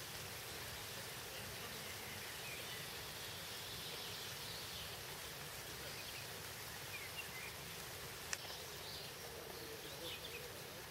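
Steady hiss of falling rain, with a few faint bird chirps and one sharp click about eight seconds in.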